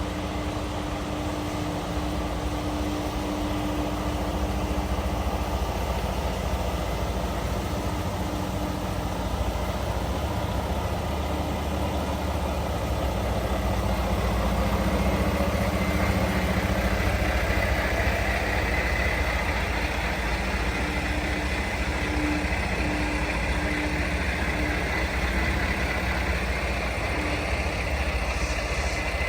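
Diesel semi-truck engine running steadily with a constant low hum.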